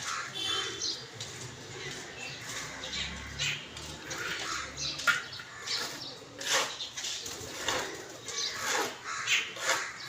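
Crows bathing: short harsh caws come every second or so, mixed with wing flapping and splashing.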